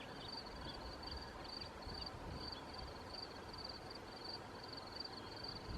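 Faint, steady chirping of a cricket, about two to three short high chirps a second, over a low outdoor rumble of wind.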